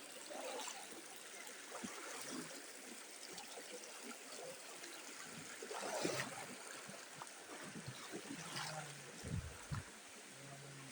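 River water running and trickling steadily, with a couple of louder splashes about six and eight and a half seconds in.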